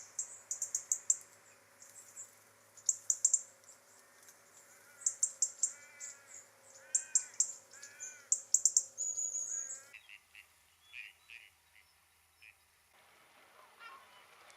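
Small birds calling: repeated quick bursts of very high-pitched notes, with lower, arched chirps between them. About ten seconds in the sound changes abruptly to scattered short chirps.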